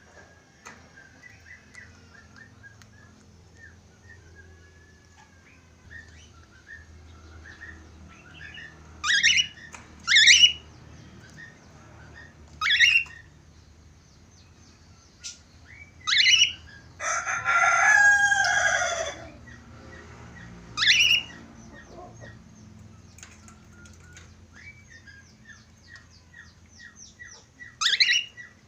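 Budgerigars chattering and warbling, cut by about six short, loud, sharp calls that sweep downward in pitch. About halfway through, a rooster crows once in a long falling call lasting a couple of seconds.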